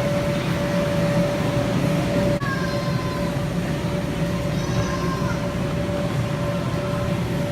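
Steady drone of inflatable bounce-house blowers running, a low rumble with a constant hum, and faint children's voices over it.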